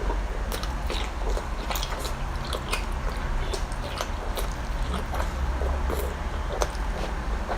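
A person biting and chewing seafood close to the microphone, with irregular wet clicks and crackles, over a steady low hum.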